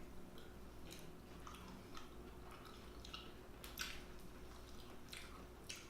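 Faint wet chewing and mouth clicks from someone eating, with a few short soft smacks scattered through, over a low steady hum.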